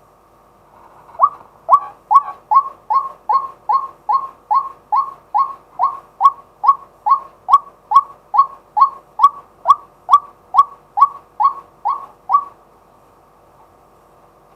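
Male white-breasted waterhen calling: a run of about two dozen loud, repeated 'kwak' notes, each slurring downward, at a steady pace of about two a second. The calls start about a second in and stop near the end.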